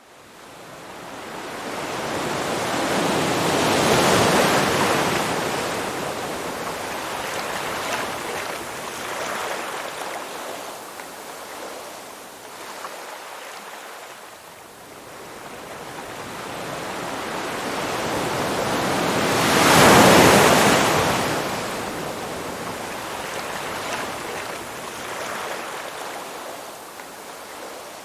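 Ocean surf: waves washing in as a hissing rush. It starts up from silence, swells about four seconds in, and swells again, louder, about twenty seconds in, with a steadier wash of water between.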